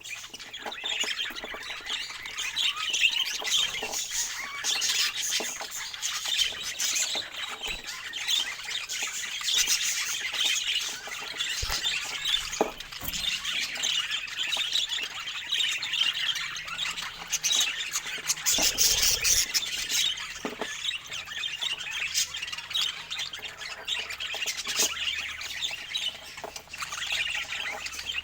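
A flock of parakeets chattering and squawking continuously, with dense overlapping high calls and a few low knocks in the middle.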